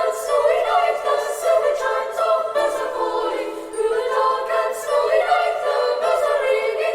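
A choir singing without accompaniment, several voices moving together through held notes.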